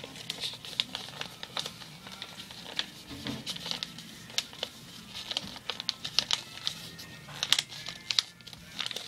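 Sheet of paper being folded and creased by hand, rustling and crinkling with many irregular sharp crackles.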